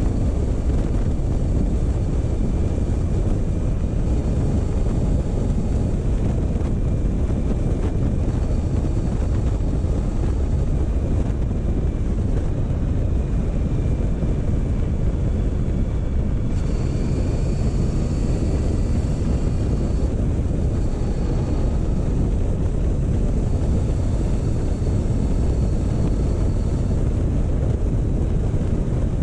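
Motorcycle running at a steady pace: the engine under a constant rush of wind on the microphone.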